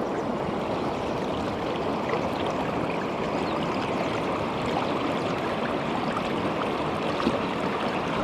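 River current rushing steadily over stones, the river running high and swollen after heavy rain.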